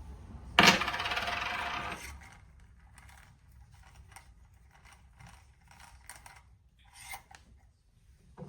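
A sharp metallic clatter about half a second in, as metal parts of a French press plunger are set down or dropped, rattling on for about a second and a half, followed by light clicks and taps as the parts are handled.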